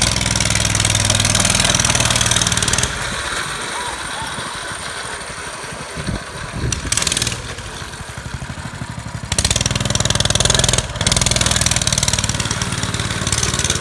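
Coleman mini bike's small single-cylinder engine being ridden: it runs at full throttle for the first few seconds, eases off to a lower run, then opens up again for the last few seconds.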